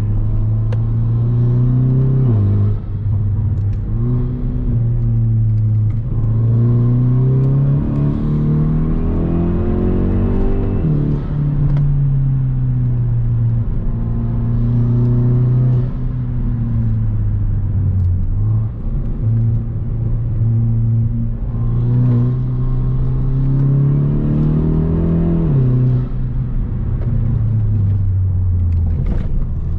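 Hyundai Veloster Turbo's turbocharged 1.6-litre four-cylinder engine and exhaust heard from inside the cabin while driving, the engine note climbing in pitch under acceleration and dropping sharply at each upshift, several times over.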